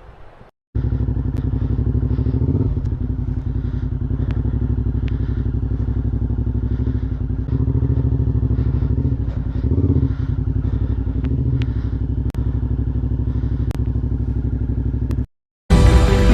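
Suzuki V-Strom 650XT's V-twin engine running steadily with a rapid pulse, its note swelling slightly twice, near 3 and 10 seconds in. Music starts just before the end.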